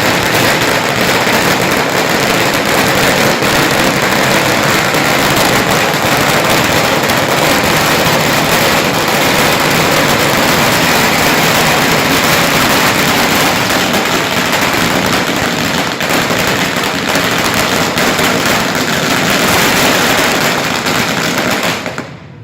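A long, dense barrage of firecrackers: hundreds of sharp cracks running together into one loud continuous crackle, which stops abruptly near the end.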